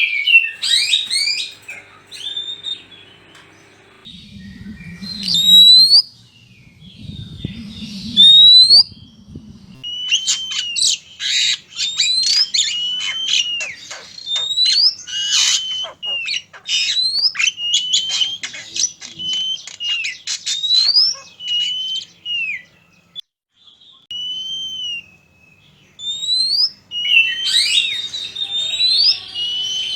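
Oriental magpie-robin (kacer) calls, male and female: repeated up-slurred whistles and a long run of rapid scratchy chattering notes. Two loud low rumbles come about 5 and 8 seconds in.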